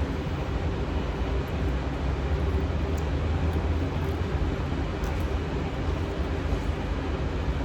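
Steady low rumble with a hiss above it, unchanging throughout, with a few faint clicks.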